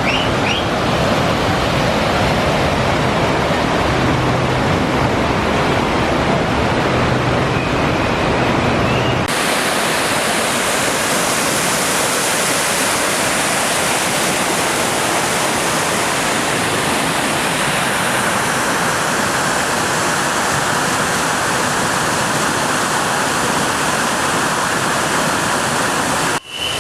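Whitewater of a mountain torrent rushing loud and unbroken over rapids. About nine seconds in, the sound switches abruptly from a fuller rush with more rumble to a brighter hiss.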